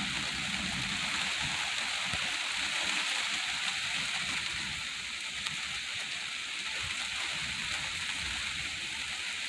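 Steady heavy rain falling and hitting surfaces, a constant even hiss.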